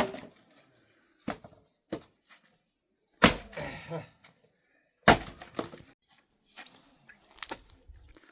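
A series of sharp knocks and bangs at irregular intervals, about six in all, the loudest about three seconds in.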